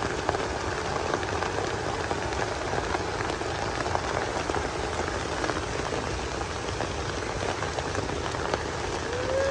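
Steady rain falling and pattering on surfaces, with many individual drops heard among the hiss.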